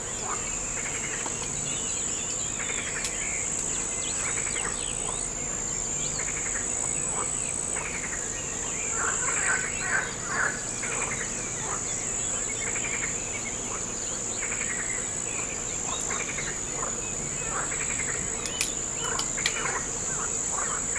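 Insects chirring on one steady high note, with bird calls chirping on and off over it.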